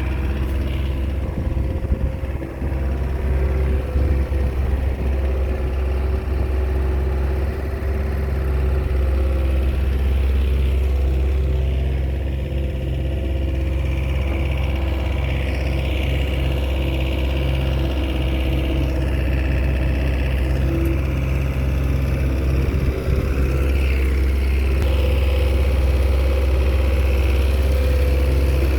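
Komatsu bulldozer's diesel engine running steadily with a constant low note.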